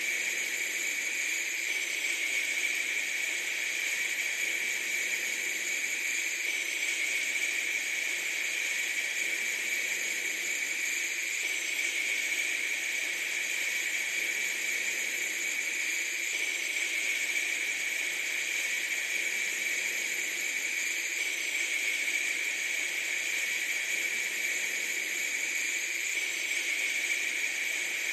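Steady, unchanging hiss of noise, strongest in the upper-middle range, with no breaks or changes.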